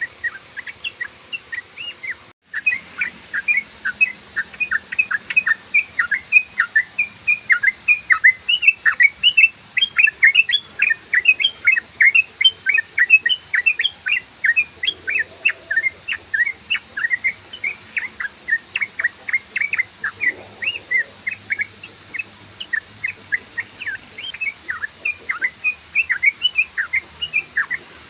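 Yellow-vented bulbul singing a fast, unbroken string of short chattering notes, several a second, in the rapid 'ropel' style. There is a brief break in the sound about two seconds in.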